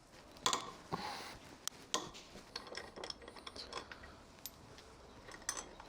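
Hand tools working on a fastener under a car: a scrape, then scattered metallic clicks and clinks.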